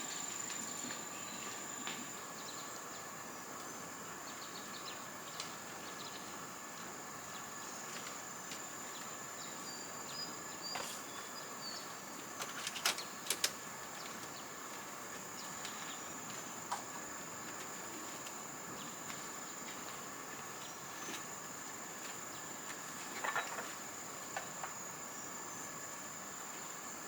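Insects trilling steadily in a high, even drone, with a few short clicks or knocks about halfway through and again near the end.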